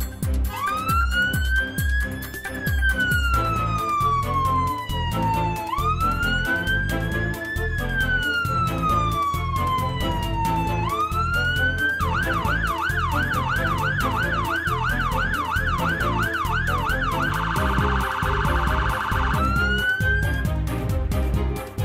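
Electronic emergency siren sounding over background music with a steady beat. It makes two slow wails that rise and then fall, then a fast yelp of about three sweeps a second, a brief rapid warble, and a last short rise.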